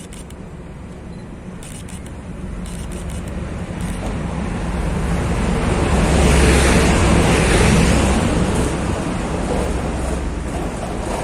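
A train passing by: a rumbling of wheels and engine that swells to its loudest about six to eight seconds in, then eases off.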